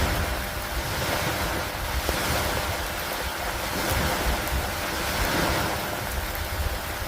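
Steady storm rain with gusting wind, a dense hiss that swells and eases every couple of seconds over a low rumble.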